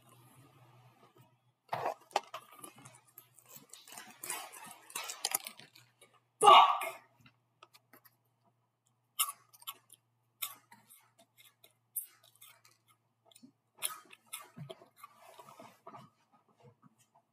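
A person chewing crunchy cereal close to the microphone: scattered crunches and clicks, with a louder burst about six seconds in.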